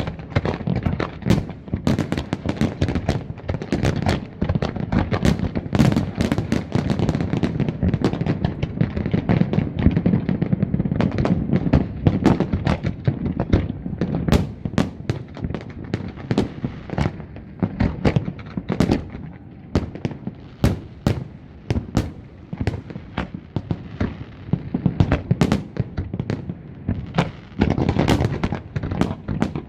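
Fireworks display: a dense, continuous barrage of bangs and crackling bursts over a low rumble, thinning out somewhat after the middle and building up again near the end.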